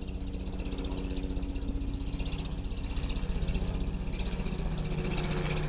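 A vehicle engine running steadily at idle: a low hum made of several steady tones with a fast even pulse.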